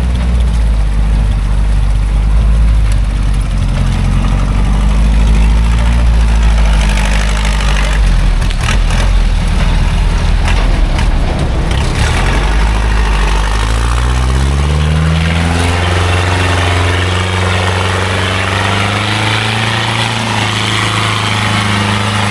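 Small loaded logging truck's engine pulling, with rattles and a few sharp knocks in the middle. About 13 seconds in the engine note rises as it revs up, then runs steady at the higher pitch.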